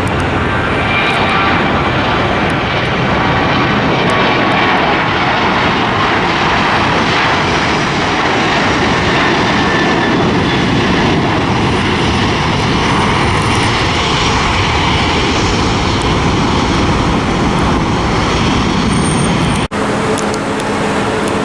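Airliner's engines running loud and steady as it passes, with faint whining tones in the first few seconds. An abrupt cut near the end switches to a different, lower steady hum.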